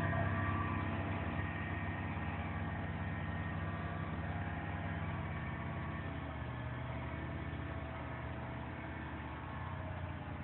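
An engine running steadily with an even drone and no speech.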